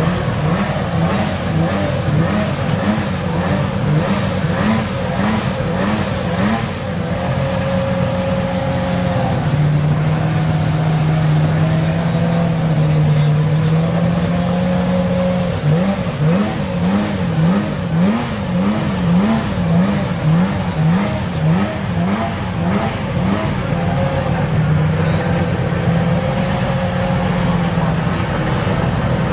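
Porsche 911 GT3 Cup race car's flat-six engine being revved in quick repeated blips, each rising and dropping back. Around the middle it holds a steady raised note for several seconds.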